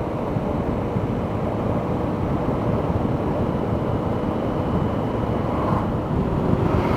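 Motorcycle underway at road speed: a steady engine drone mixed with wind and road noise.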